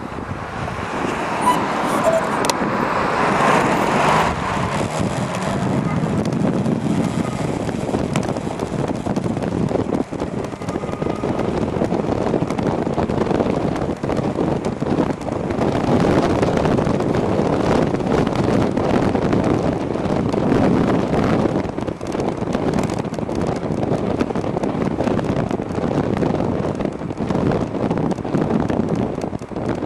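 Wind buffeting the microphone and road traffic noise while riding an e-bike. The rushing swells and fades as vehicles pass, loudest about three seconds in.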